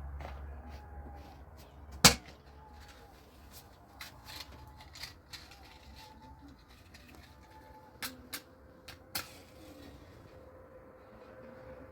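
A few sharp knocks: one loud knock about two seconds in, some quieter taps around four to five seconds in, and three more knocks between eight and nine seconds in.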